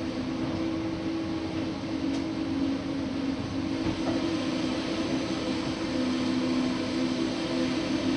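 Steady running noise of a Laos–China Railway train rolling through a station, with a low hum held throughout, growing slightly louder toward the end.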